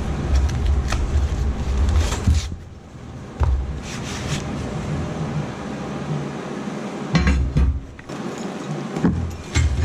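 Unpacking a boxed tool stand: cardboard being handled and metal parts knocking and clattering against each other, with a louder knock about seven seconds in.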